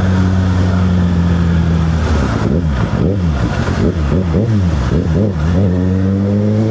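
Kawasaki ZX-6R's inline-four engine under way. It holds steady revs for about two seconds, then the revs rise and fall quickly several times, and near the end they climb steadily as the bike accelerates.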